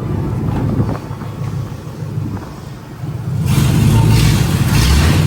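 Three-valve V8 car engine running low, then revved hard from about three and a half seconds in, with a loud rushing noise over the engine, as the car strains to climb onto a ramp.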